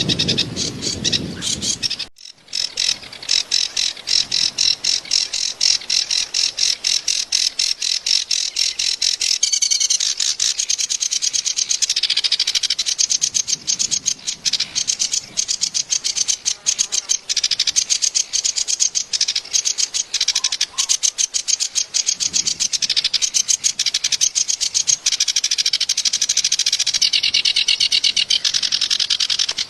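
A kerak basi (reed warbler) singing a long, harsh, rapid chattering song, with a brief break about two seconds in.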